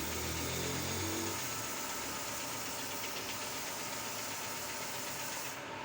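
Shop machinery running steadily with a wide hiss, and a low hum in the first second or so; the hiss cuts off near the end.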